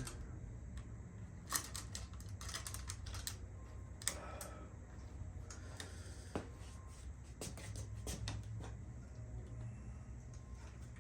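Scattered light clicks and taps of small bicycle parts being handled during assembly, some in quick clusters, over a low steady hum.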